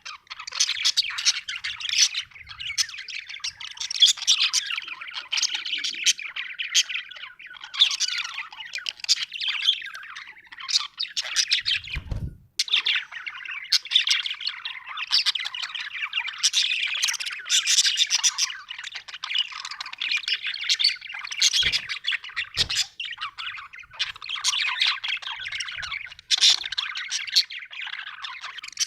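Budgerigar chirping without pause, a dense stream of quick high chirps, with a dull thump about twelve seconds in.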